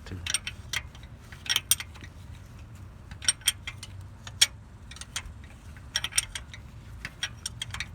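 Ratcheting wrench working a tight bolt in short strokes: irregular sharp metallic clicks and clinks, coming in small clusters.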